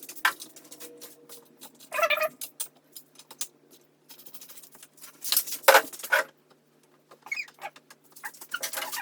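Hand tools clicking and clinking against bike parts while the cranks are being taken off, in short irregular clusters of small clicks and metallic knocks.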